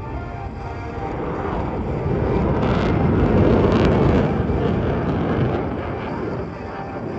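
F-22 Raptor's twin Pratt & Whitney F119 turbofans in a loud jet roar that swells to a peak about halfway through, then fades as the jet passes.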